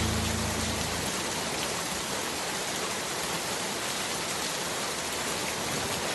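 Steady hiss of rain, with the song's last held low chord fading out about a second in.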